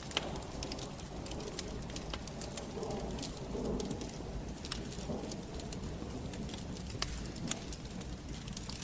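Wood fire burning in a fireplace, crackling with irregular sharp pops over a low steady rumble; one louder pop about seven seconds in.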